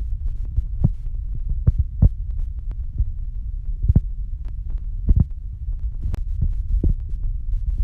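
Wood fire crackling in a hanging fireplace: irregular sharp pops and cracks, about half a dozen louder ones, over a steady low rumble.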